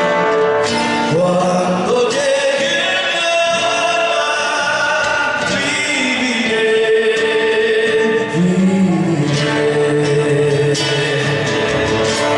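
Argentine folk song being performed, with singing over instrumental accompaniment.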